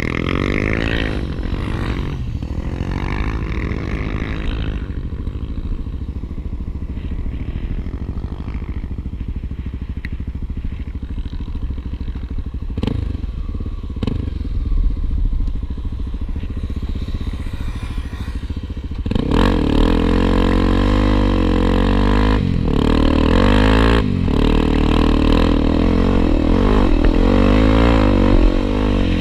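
Honda XR250 Tornado single-cylinder trail motorcycle engine running at low speed, then getting louder and revving harder about two-thirds of the way through as it pulls away.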